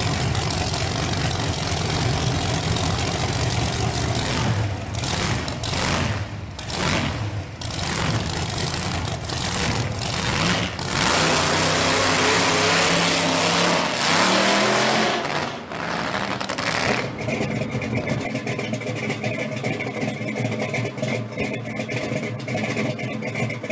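Supercharged, alcohol-fuelled 547 V8 of a 1970 Ford Torino Cobra pro street car revving in broken, choppy blips, then running at full throttle as the car launches about eleven seconds in. Its pitch rises, then falls away as it pulls off down the track.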